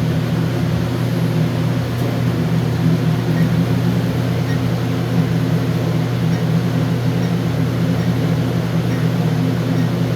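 Steady, loud mechanical hum from running machinery, a low drone of several even tones that holds unchanged throughout.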